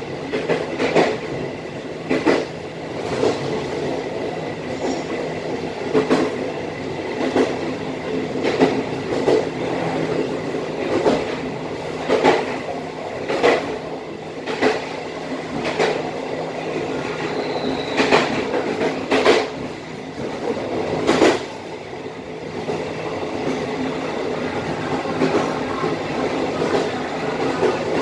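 Passenger train running on the rails with a steady rumble, its wheels clacking sharply over rail joints every second or two as it gathers speed.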